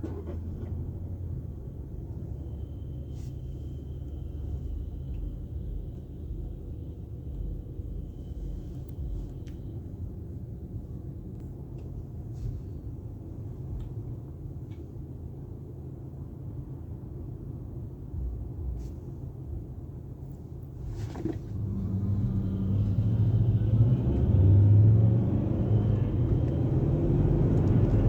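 Low steady rumble of car wash tunnel machinery. After a sharp click about three-quarters of the way through, it grows louder, with a deeper hum.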